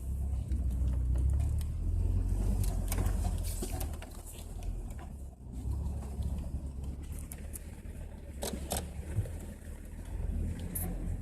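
Jeep engine running at low speed, heard from inside the cab as it crawls over boulders. Scattered clicks and knocks come over the steady low rumble, with two sharper knocks about three-quarters of the way in.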